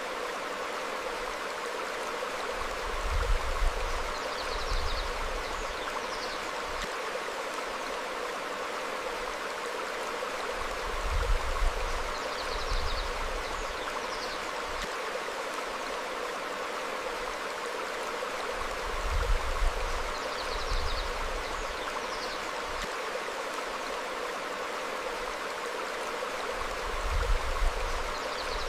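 Stream flowing over rocks, a steady rush of water. About every eight seconds a low rumble swells briefly, each time with a couple of faint, short bird chirps.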